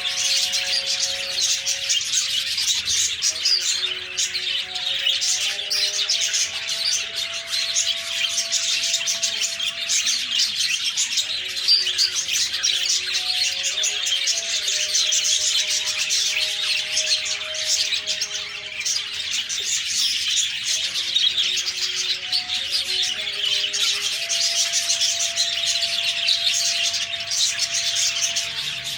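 A flock of budgerigars chattering and chirping without a break. Underneath runs a soft melody of long held notes that step from one pitch to another every second or two.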